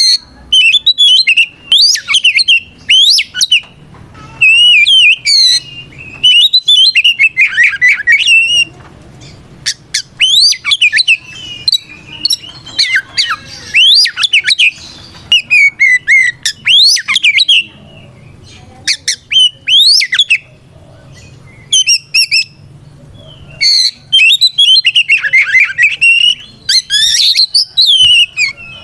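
Oriental magpie-robin (kacer) singing loudly in full challenge song: rapid whistled and warbling phrases with harsh squawky notes, delivered in bursts with short gaps and a longer lull about two-thirds of the way through. It is a male's fighting song calling out a rival, the kind used to provoke other magpie-robins into answering.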